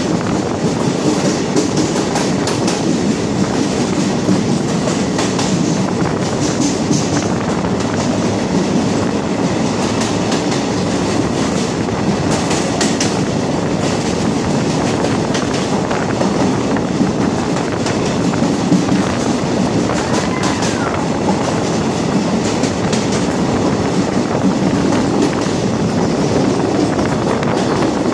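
Train running through a tunnel, heard from inside a coach: a loud, steady rumble of wheels on rail, echoing off the tunnel walls, with scattered clicks as the wheels cross rail joints.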